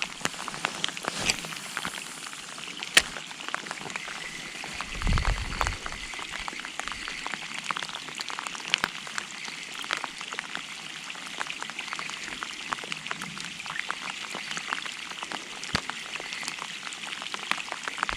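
Rain falling, a dense patter of many small drops with no letup. About five seconds in, a short gust of wind rumbles on the microphone.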